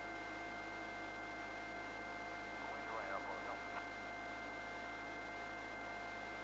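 Steady hiss of a helicopter crew's radio audio feed, carrying a few faint constant tones. A faint, garbled voice comes through briefly about three seconds in.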